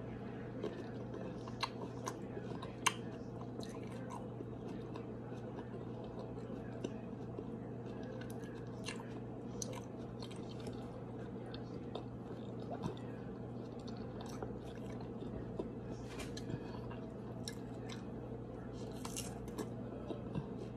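Close-up chewing of fresh peach slices, with short wet mouth clicks and smacks scattered throughout. A steady low hum runs underneath.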